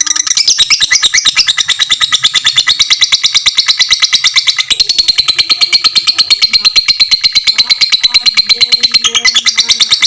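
Lovebird ngekek: a long, unbroken run of rapid, shrill chattering notes repeated many times a second.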